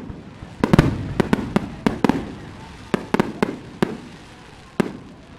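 Fireworks going off: about a dozen sharp bangs, several in quick clusters, each trailing a rolling echo. They thin out toward the end, with a last single bang near the close.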